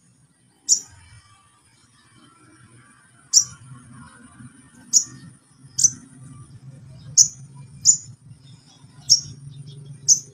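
Crimson sunbird giving short, sharp, very high-pitched chip calls, eight of them spaced about one to two seconds apart. A faint low hum runs underneath from about three seconds in.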